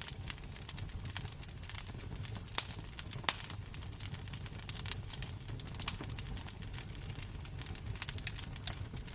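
Wood fire crackling in a fireplace: irregular snaps and pops over a low, steady rumble, with a couple of sharper pops about a third of the way through.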